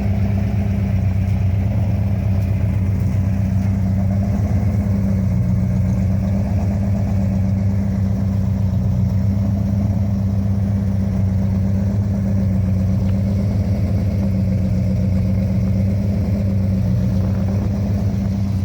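1968 Dodge Charger R/T's 426 Hemi V8, bored .030 over, idling steadily with a noisy valve train.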